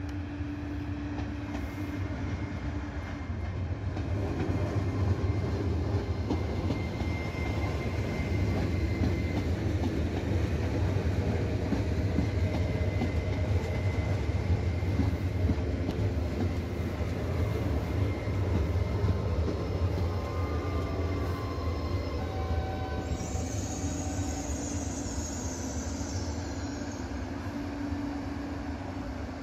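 A Trenitalia ETR 104 'Pop' electric multiple unit running into the station on the rails: a low rumble of wheels and running gear that grows louder about four seconds in as it comes close, with faint steady whines. A high wavering squeal sounds for a few seconds near the end.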